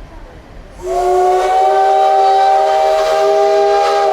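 Steam whistle of the CT273 steam locomotive blowing one long, steady blast of several tones together, starting about a second in, sounded as the train gets ready to pull away.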